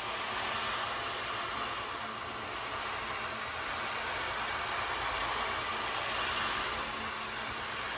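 Wave board: beads rolling across the board in a steady rushing wash that swells and eases gently.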